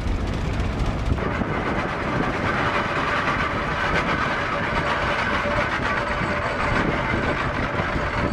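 Vintage farm tractor engine running, its sound changing about a second in.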